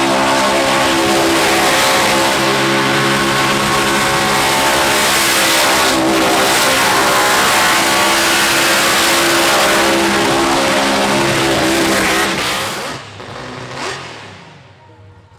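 Burnout car's engine held at high, steady revs, cutting back sharply about 13 seconds in, with one short blip as it fades away.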